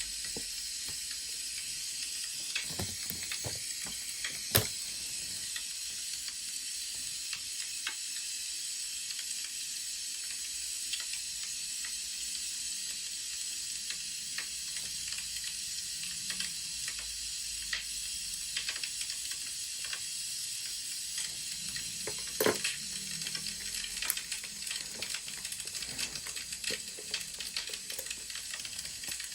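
Wood fire crackling: a steady hiss full of small scattered pops, with a few louder sharp clicks about three to five seconds in and again near twenty-two seconds.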